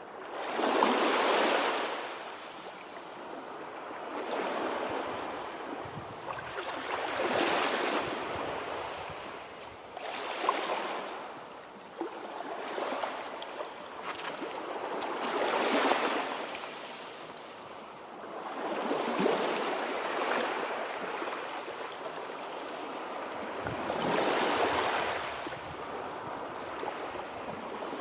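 Sea waves washing in and drawing back, about eight swells of surf that each rise and fall away, mostly about three seconds apart.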